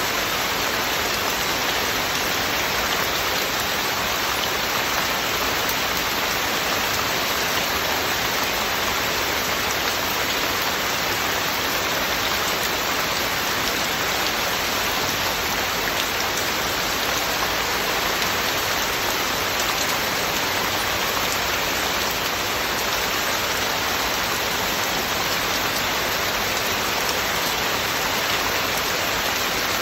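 Heavy, steady rain falling and pattering on surfaces, an even hiss of many fine drops with no letup.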